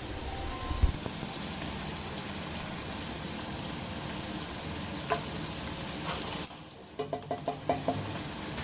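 Food sizzling as it fries in a pan: a steady hiss with a couple of sharp clicks. Near the end the hiss drops away and a quick run of short pitched sounds follows.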